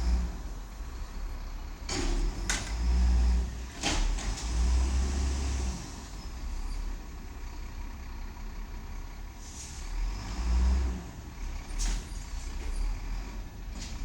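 Diesel garbage truck engine running and revving up in several surges, with a few short, sharp hisses of air in between.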